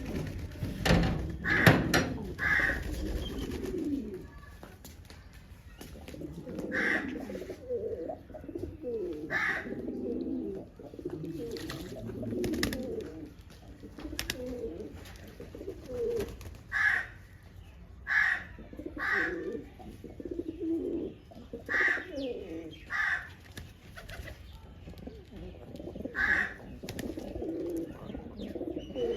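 Pigeons cooing over and over. About a dozen short, sharp sounds are scattered irregularly among the calls.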